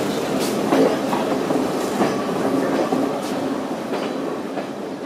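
Sri Lankan hill-country train running along the track, its wheels clattering over the rail joints in uneven clacks.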